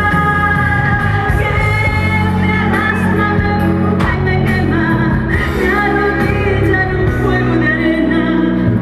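A woman singing a pop song, holding long notes over instrumental accompaniment with a steady bass line.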